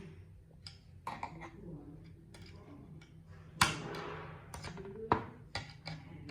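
Clicks and knocks of tools and parts being handled on a workbench, with one loud clattering impact about three and a half seconds in and another sharp knock about a second and a half later.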